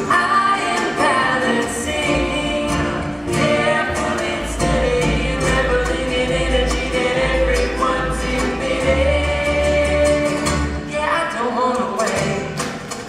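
A live band playing a pop song: held lead and group harmony vocals over low bass notes and steady percussion.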